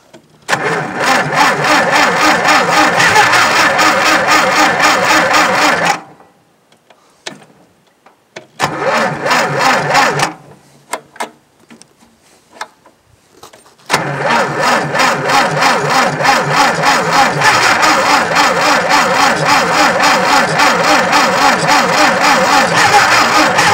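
Starter cranking a tractor engine in three attempts, turning it over slowly with an even pulsing beat but never catching: a short try, a shorter one about halfway, and a long one starting in the second half. The slow cranking is the sign of a nearly dead battery, and the owner believes the spark plugs are fouled.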